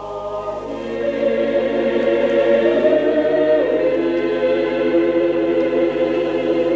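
Church choir singing a cappella: slow, held chords in several voices that swell about a second in.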